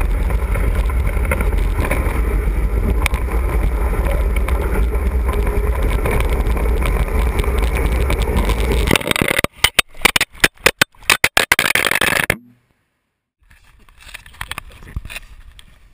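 Wind rush on the microphone and wheel rumble from a Blokart land yacht sailing fast, a loud, steady noise. About nine seconds in it breaks into a run of sharp knocks and clatter as the kart-mounted camera comes loose from its bracket and tumbles on the ground. The sound then cuts out for a moment and comes back quieter.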